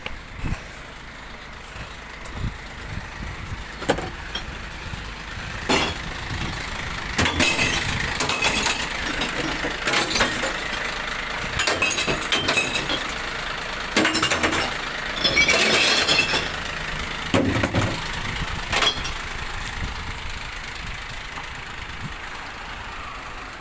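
Glass recycling truck running while a series of loud crashes and clattering cascades break out over it. The longest crashes come about 7 to 9 seconds in and again about 14 to 16 seconds in, consistent with glass bottles being emptied into the truck. The crashes stop in the last few seconds, leaving the truck running.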